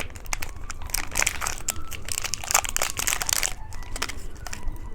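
Plastic candy wrapper crinkling and crackling as it is handled, in irregular bursts of close, crisp crackles, busiest about a second in and again in the middle.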